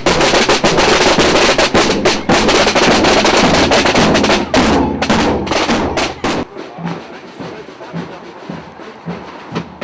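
Marching corps of drummers playing snare and bass drums in rapid, rolling strokes, stopping about two-thirds of the way through.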